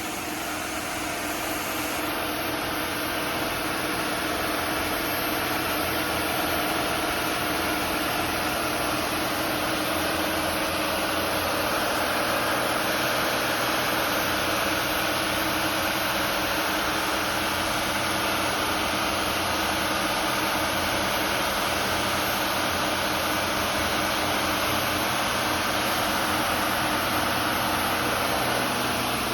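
The Bayliner 4788 motor yacht's engine runs steadily at cruising speed under way, around 2,500 RPM.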